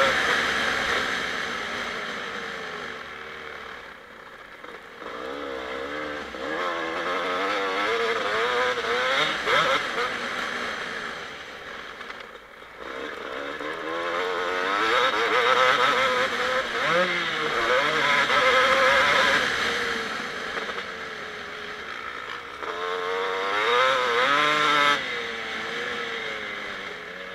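Kawasaki KX250 single-cylinder two-stroke motocross engine under riding, its pitch rising and falling constantly as the throttle is opened and shut, with brief lulls about 4, 12 and 22 seconds in as it comes off the gas.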